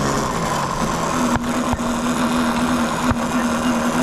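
RC model airplane engine droning at a steady pitch during a race flight, with a few short clicks.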